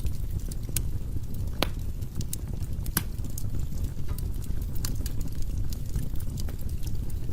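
Wood fire crackling in a fireplace: a steady low rumble of flames under frequent sharp crackles and pops, with two louder pops about a second and a half and three seconds in.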